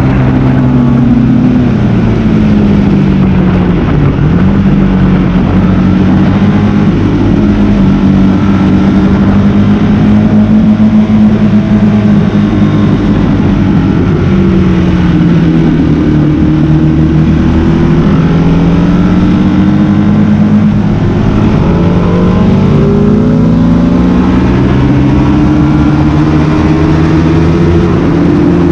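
Sports motorcycle engine heard up close while lapping a race track, its pitch repeatedly climbing under acceleration and dropping away when braking and shifting, over a constant rush of noise.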